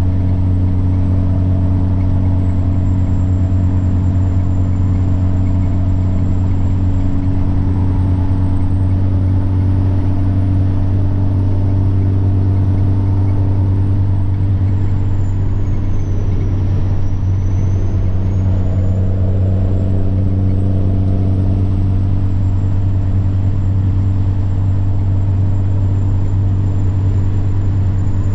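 Semi-truck diesel engine pulling steadily with a deep, even drone, over which the turbocharger's thin, high whine wanders in pitch, sagging about halfway through and then climbing back.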